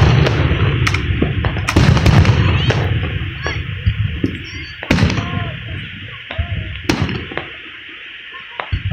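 Aerial fireworks going off: a series of sharp bangs about every one to two seconds, each followed by a low rumble. The loudest come near the start, and they ease off toward the end.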